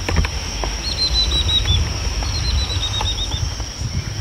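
A bird calling two quick runs of high, evenly repeated chirps, the second run about a second and a half after the first. Under it are a steady high whine and a low rumble.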